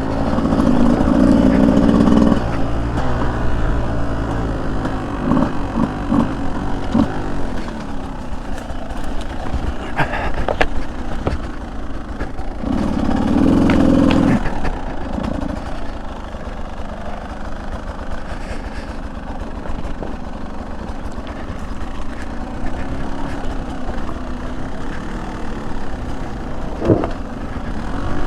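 Beta 200 two-stroke dirt bike engine running on a trail ride, opening up loudly twice, in the first two seconds and again about 13 seconds in, between stretches of lighter throttle. A few sharp knocks sound along the way.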